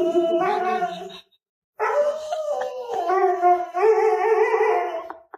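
A dog howling in long, drawn-out notes. There are two stretches, broken by a short silent gap about a second in.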